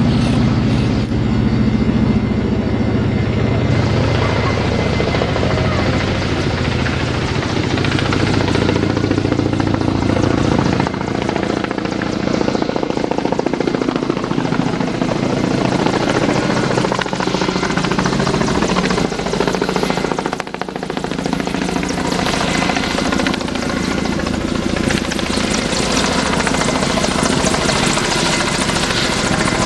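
Kamov Ka-32 helicopter, with twin turboshaft engines and coaxial contra-rotating rotors, running loudly and steadily. About a third of the way through, the deep low rumble drops away, and the sound dips briefly near the two-thirds mark.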